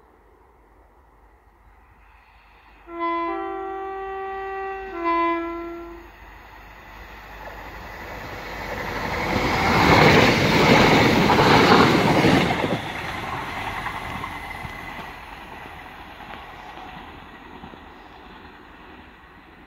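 A Class 175 diesel multiple unit sounds a three-note horn, low, high, then low again, then passes close by at speed. The noise of its engines and wheels swells to its loudest as it goes past and then slowly dies away.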